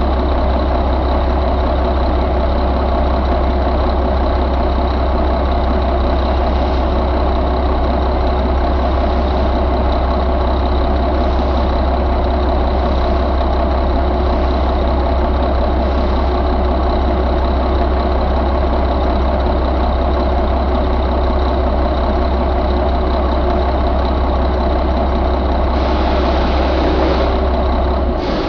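1997 Mack E7 inline-six diesel engine running at a steady idle.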